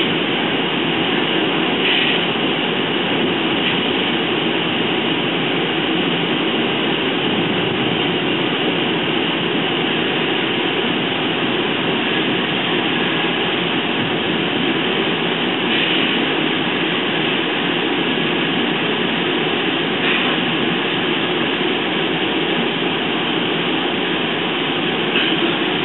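Steady running noise of an NJ Transit multilevel passenger coach heard from inside the car, wheels on rail as the train runs into a station, with a few brief clicks along the way.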